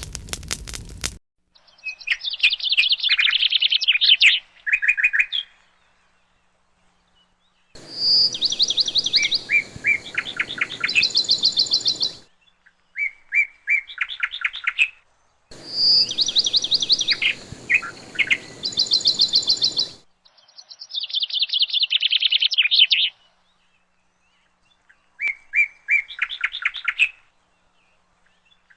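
Songbird singing in phrases of quick trills and chirps, separated by short pauses, with the same phrases recurring. A fireplace crackle cuts off about a second in, just before the birdsong starts.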